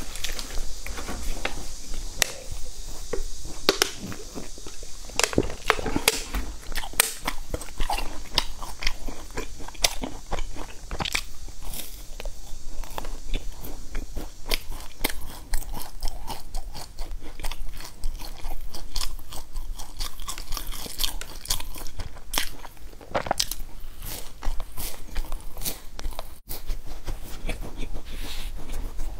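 A person biting and chewing crisp biscuits and a crunchy raisin-and-nut bar, a dense run of sharp crackling crunches.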